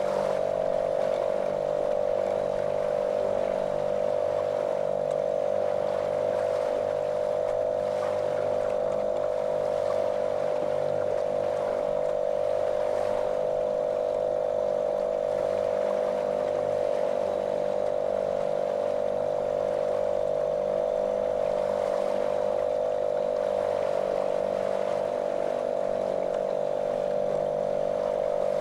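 Small motorboat's outboard motor running at a constant speed, a monotonous drone with an even hum, over a hiss of water.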